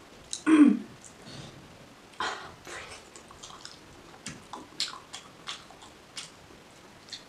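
Close-miked eating sounds from a person chewing boiled egg dipped in chutney, eaten by hand: wet chewing, squelches and lip smacks heard as a string of sharp clicks at uneven intervals. A louder wet sound comes about half a second in.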